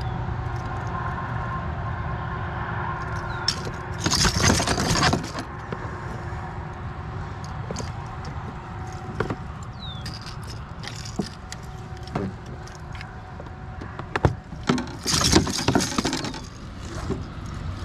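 Metal jangling and clicking of an umbrella rig's wires and hooks being handled while a deeply swallowed hook is worked free from a walleye, loudest in two brief spells about four seconds in and again near the end, over a steady background hiss.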